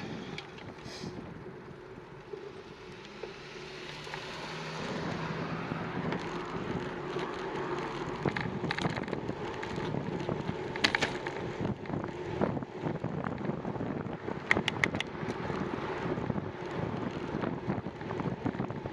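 Wind rushing over the microphone and road noise while riding a bicycle, growing louder a few seconds in, with a few sharp clicks or rattles past the middle.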